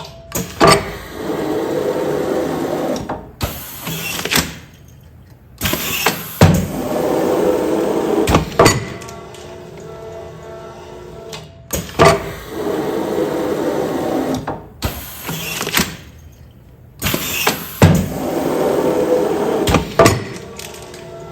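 Automatic container sealing machine running repeated film-sealing cycles, one about every six seconds. Each cycle is a sharp clack, about two seconds of steady mechanical noise, then a few clicks and a short burst of noise, with each cycle sealing one food container.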